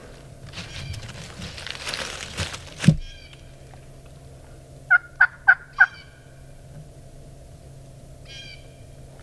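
Wild turkey calling: faint distant gobbles, and a run of four loud, short yelps about five seconds in. Before them, a rustle builds and ends in a sharp knock near three seconds.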